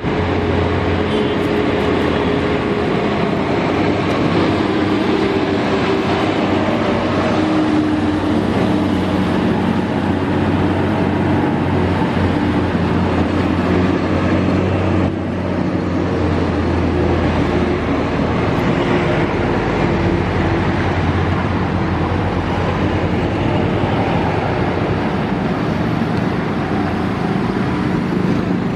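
Heavy Tata trucks' diesel engines running under load on a ghat road, a steady engine drone with low tones that shift slowly; the engine note drops lower a little past halfway.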